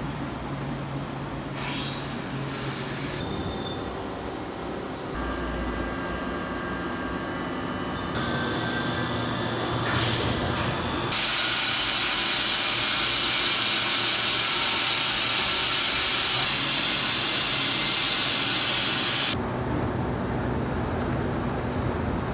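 Machine-shop sound of a CNC machine running, with steady whining tones that shift abruptly a few times. About halfway through, a loud hiss like a compressed-air or coolant blast runs for about eight seconds, then cuts off suddenly.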